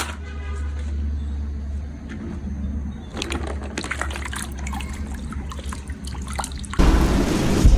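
Film soundtrack: a steady low rumble with rushing, splashing water, then a sudden loud surge of noise near the end.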